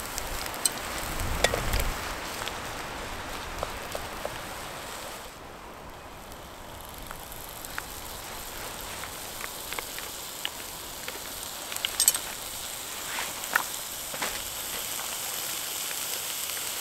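Minced beef and red onion sizzling in a frying pan over a Trangia spirit stove, a steady hiss with scattered pops and crackles.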